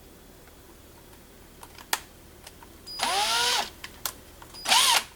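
Small power drill run in short bursts: one of under a second about three seconds in, then a brief second burst near the end, its motor whine rising as it spins up and falling as it stops. A few light clicks and one sharp click come just before.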